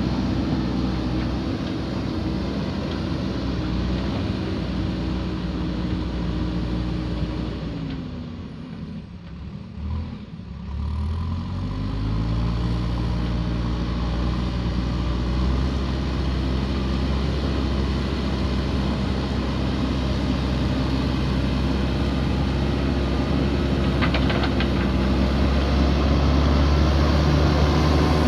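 JCB backhoe loader's diesel engine running. About eight seconds in, its pitch sinks away almost to nothing, then climbs back a couple of seconds later, and it runs steadily, a little louder near the end. A few faint clinks come in about three-quarters of the way through.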